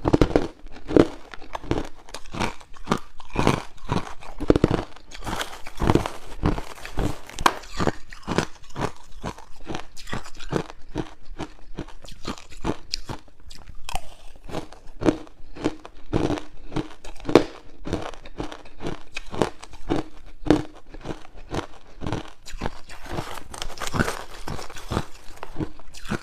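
Close-up crunching of hard ice cubes being bitten and chewed, a rapid irregular run of sharp cracks and crackles with the sound of the chewing mouth.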